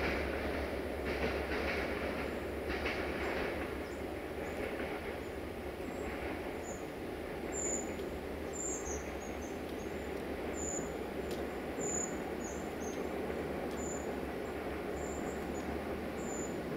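A train out of sight running along the rails, its wheel clatter fading over the first few seconds into a steady low rumble. Short, high chirps join in from about halfway.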